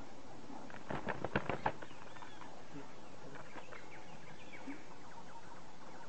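Birds calling with short high arched chirps, and a quick run of about seven sharp knocks about a second in, as from a woodpecker striking a tree trunk.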